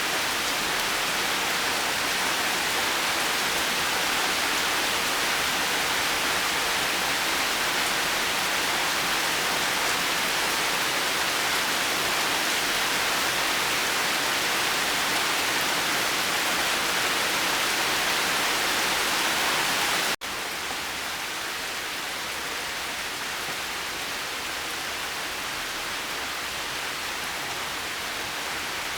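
Steady, even rain. About two-thirds through it drops out for an instant and then goes on a little quieter.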